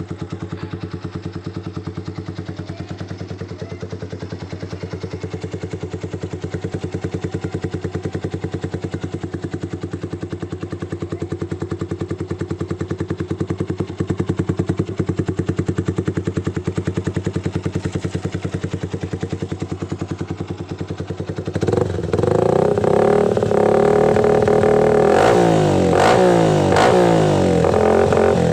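Yamaha Vixion single-cylinder motorcycle engine running through a JRM aftermarket racing exhaust: it idles steadily, then from about three quarters of the way in it is revved in several quick blips, the pitch rising and falling, louder than the idle.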